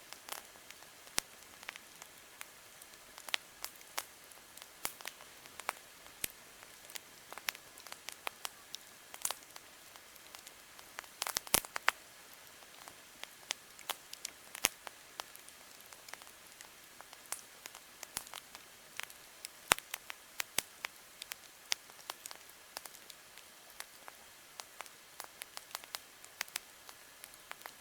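Campfire crackling: irregular sharp pops and snaps over a steady soft hiss, with a quick run of louder pops about eleven seconds in.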